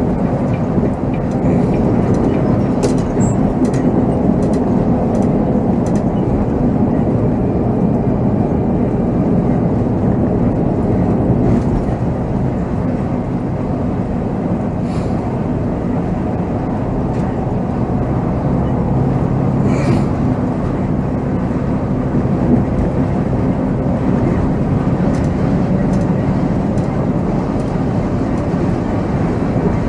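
Volvo B7R coach engine and road noise heard from the driver's seat while driving, a steady drone with a few faint light clicks and rattles.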